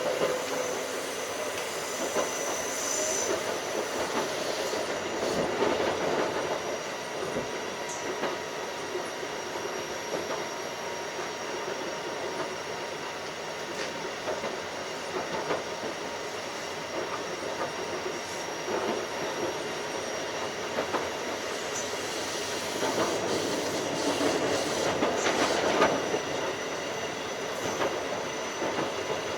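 Keikyu 1500 series field-chopper electric train running at speed: a steady rumble of wheels on rail, with scattered clicks from rail joints.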